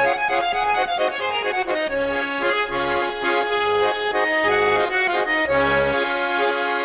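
Accordion playing a traditional folk tune, a melody over regularly sounded bass notes.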